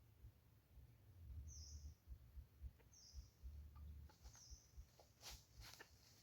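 Faint high bird chirps, one short chirp about every second and a half, over a low rumble like wind on the microphone, with a few rustling clicks near the end.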